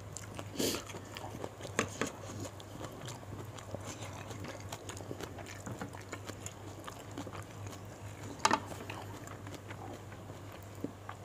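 Close-miked chewing and biting of fried gourami and sambal eaten by hand, a scatter of small wet clicks and smacks with two louder sharp ones, about half a second in and near the end. A low steady hum runs underneath.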